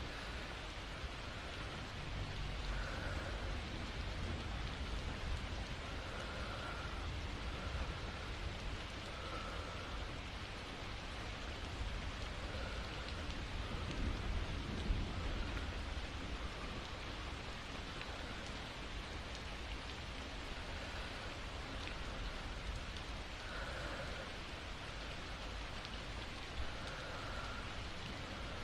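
Steady rain falling, an even wash of noise with a couple of louder drop ticks.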